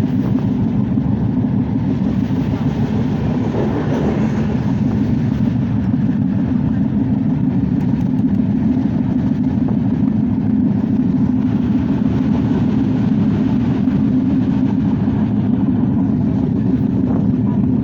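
Steady rumble of the Bonolota Express passenger train running along the line, heard from inside the carriage.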